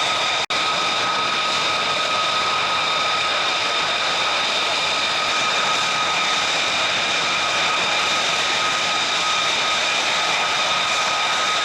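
Military jet engine running steadily: a wide rushing noise with a constant high whine over it. The sound cuts out for an instant about half a second in.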